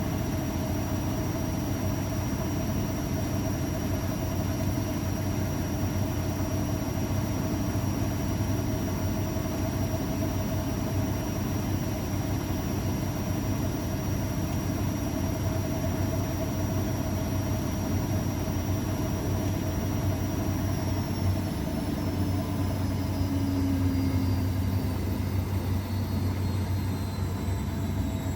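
AEG Öko_Lavamat 693 washing machine running steadily with a motor hum and a high whine, the drum most likely spinning. About 21 seconds in the whine starts to fall in pitch as the motor slows down.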